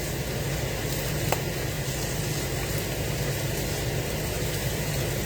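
A steady low hum, like a motor or fan, with an even hiss over it.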